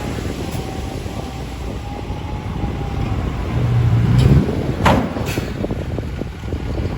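Ten-wheel diesel dump truck running, its engine swelling louder about four seconds in, followed by two sharp knocks about half a second apart.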